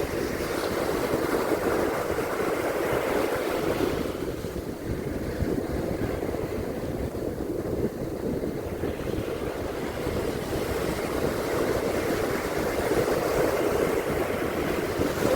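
Surf washing onto a beach in a steady surging hiss, easing a little midway and building again near the end, with wind rumbling on the microphone.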